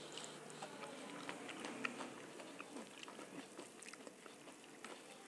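Soft, close-miked chewing of dal and rice, with many small wet mouth clicks, and fingers squishing rice and dal together on a steel plate.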